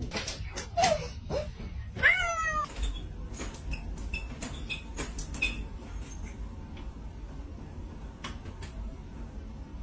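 A cat meowing: a couple of short falling meows, then one longer, louder meow about two seconds in, followed by small clicks and brief high squeaks.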